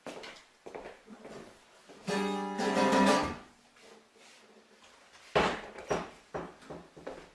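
An acoustic guitar chord rings out for about a second, amid faint scattered clicks. Near the end comes a run of about five short knocks, the first the loudest.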